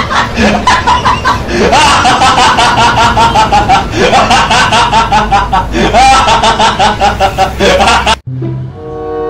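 High-pitched, sped-up laughter sound effect: rapid 'ha-ha-ha' pulses, several times rising into a fresh burst of cackling. It cuts off abruptly about eight seconds in, leaving faint music.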